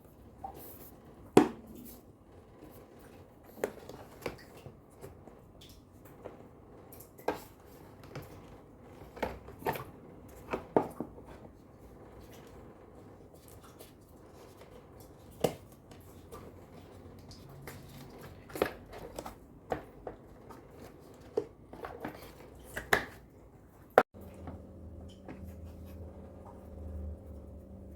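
Scattered clicks, taps and snips of hands working with small tools on appliance wiring and panels, irregular and of varying loudness. About 24 seconds in the sound cuts off sharply and a steady low hum with a few held tones takes over.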